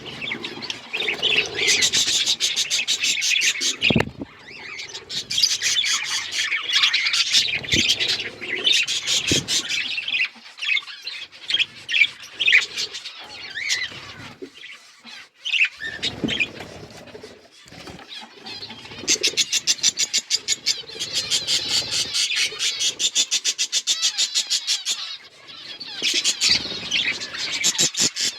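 Several budgerigars chattering and chirping nonstop, with stretches of very fast, rapid-fire warbling and the odd squawk. A few sharp knocks are heard along the way.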